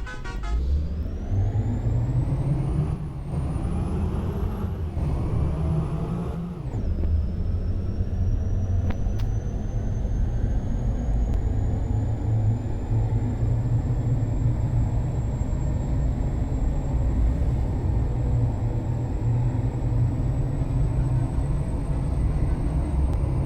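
Ashok Leyland truck's diesel engine accelerating through the gears: its pitch climbs and drops back three times in the first seven seconds as it shifts up. It then pulls steadily with a slowly rising high whine.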